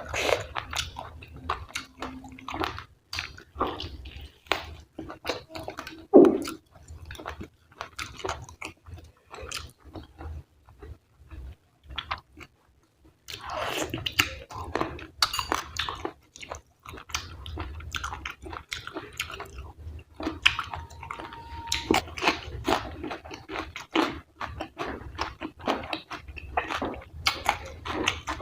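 A person chewing mutton fat curry and rice close to the microphone: many wet, irregular mouth clicks and squelches, with a short pause about halfway through.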